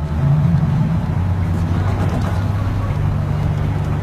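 Motor vehicle engine running with a steady low hum, under a continuous noisy hiss.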